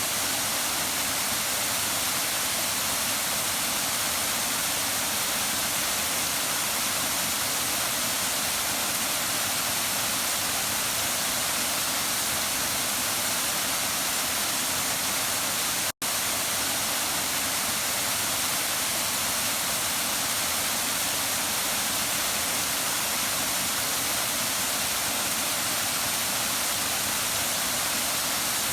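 Waterfall: a steady rush of falling water with no change in level, cutting out for an instant about halfway through.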